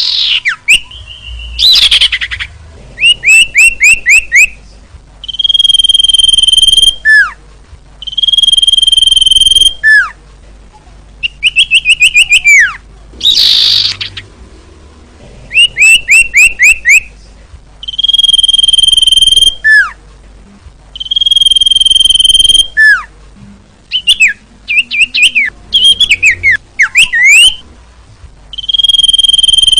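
Female common iora (cipoh) calling over and over. Runs of quick, short falling notes alternate with a long steady whistle of about a second and a half that drops sharply at its end. It is the female's call used to lure males.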